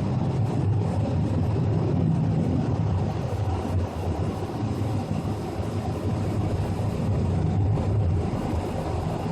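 Steady low roar like a jet airplane that never passes, coming from the sky, mixed with a nearby air conditioner unit running.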